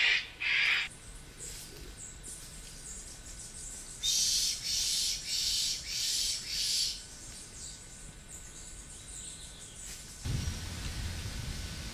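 A bird giving harsh, scratchy calls: two short ones at the start, then a run of about five louder calls a few seconds in. A low rumble comes in near the end.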